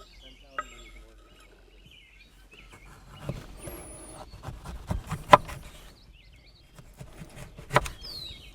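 Outdoor ambience with small birds chirping in short gliding calls, broken by a few sharp knocks and clatters of hands working with gear or utensils; the loudest knocks come about halfway through and near the end.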